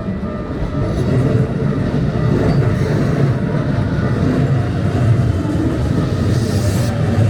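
Keikyu electric trains running past: a loud, steady low rumble of wheels on the rails, with a brief higher hiss about six seconds in.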